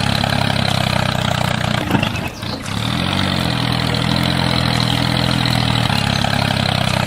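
Tractor engine idling steadily. Near two seconds in it briefly drops away, and about three seconds in its pitch rises and falls once.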